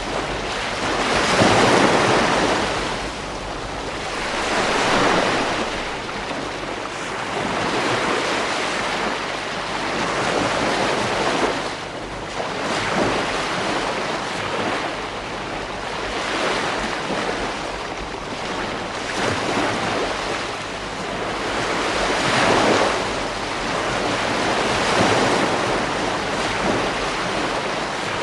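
Ocean waves breaking on a beach, the surf swelling and easing every few seconds in a steady wash, with some wind on the microphone.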